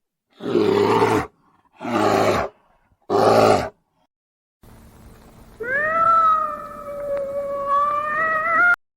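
Three short, loud, rough animal calls in quick succession, then, after a pause, a separate long drawn-out pitched call that rises and then holds with a slight waver before cutting off abruptly.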